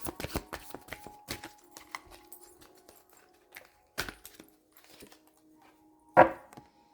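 Tarot or oracle cards being shuffled and handled: a quick run of light clicks and taps, then sparser taps, with a louder knock about four seconds in and a sharper slap just after six seconds, over faint background music.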